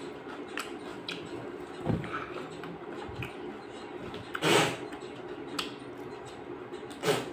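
Eating raw vegetables: chewing with a few short crunches, the two loudest about four and a half and seven seconds in, over a steady low hum.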